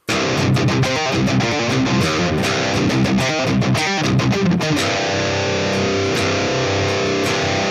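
Distorted electric guitar played through a Line 6 HX Stomp XL high-gain preset, with its chorus effect switched on and off. A quick picked riff for about five seconds, then a held chord ringing to the end.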